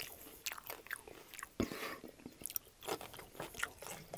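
Close-miked chewing of crunchy food, with irregular crunches and wet mouth clicks.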